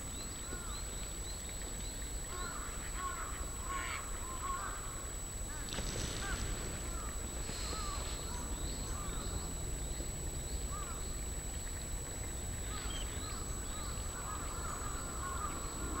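Birds chirping, many short quick calls overlapping, over a steady low rumble, with a couple of harsher noisy calls around six and eight seconds in.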